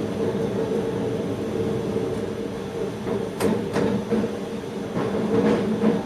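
Electric train running, heard from inside the driver's cab: a steady hum, with a series of sharp wheel knocks on the track starting about halfway through.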